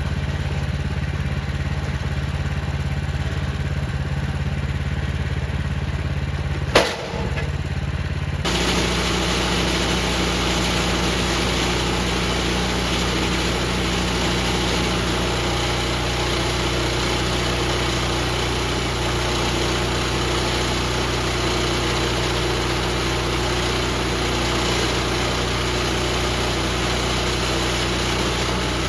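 Woodland Mills HM126 portable band sawmill running steadily, sawing a red oak log into slabs. There is a single sharp knock about seven seconds in. A second or so later the sound turns abruptly brighter and noisier, then holds steady.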